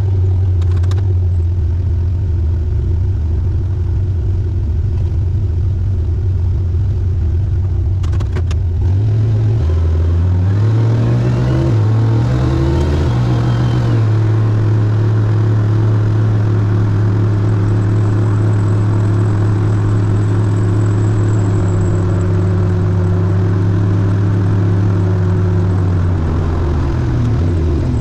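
Turbocharged Chevrolet Biscayne's engine running as the car drives, a steady low drone whose pitch climbs and drops in several steps about a third of the way in, then holds steady and falls away near the end.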